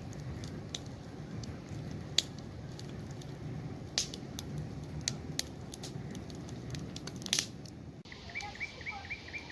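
Campfire crackling, with sharp pops over a low steady rumble of the flames. About eight seconds in it cuts abruptly to a small bird singing a quick run of repeated chirps, about six a second.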